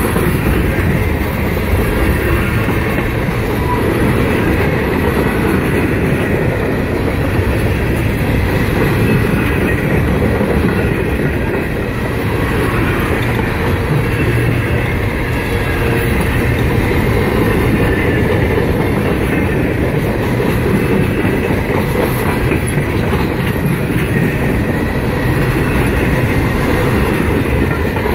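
Loaded freight train of covered gondola cars rolling slowly past at close range: a steady, loud rumble of steel wheels on the rails.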